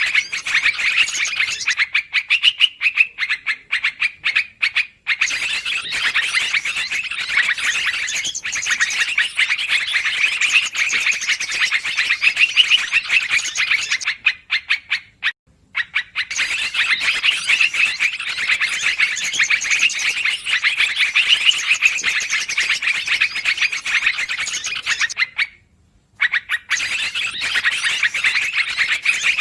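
Yellow-vented bulbul (trucukan) lure recording: a dense, rapid chatter of noisy calls that breaks off briefly three times.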